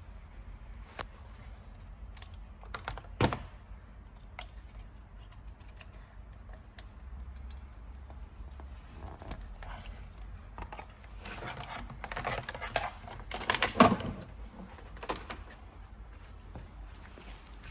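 Scattered clicks, taps and light metallic clatter of hand tools and parts being handled during repair work, with the loudest knocks about three seconds in and again near fourteen seconds in.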